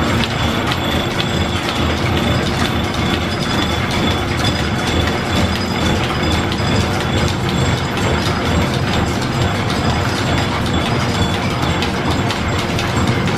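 Belt-driven machine-shop machinery running off a line shaft: a steady mechanical clatter of belts, pulleys and gears, with many small clicks throughout.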